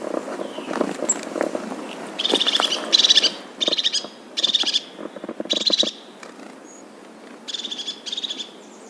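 A bird calling in a series of about seven short, rapid trills, each about half a second long, with a pause before the last two. Low rustling and clicks come before the calls start.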